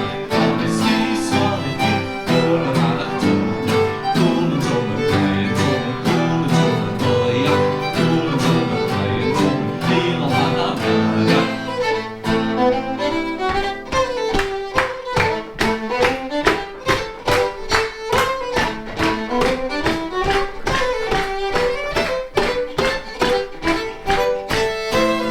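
Fiddle playing a Scottish/Cape Breton dance tune with electric guitar accompaniment. About halfway through the fuller low backing drops away and the fiddle carries on over a crisp, even beat.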